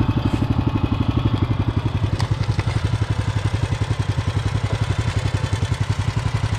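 Small tractor engine running steadily close by, with an even, rapid chugging beat.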